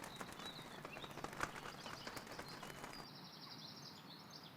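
Faint outdoor ambience with scattered soft clicks and a few short, high chirps from a small bird, with a quick run of high chirps about three seconds in.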